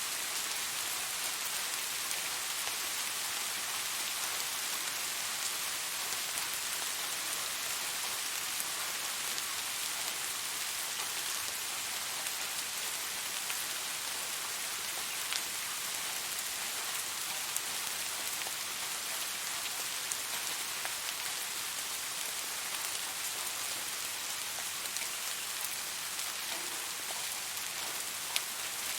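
Steady rainfall: an even hiss of rain on a surface, with scattered sharper drop ticks.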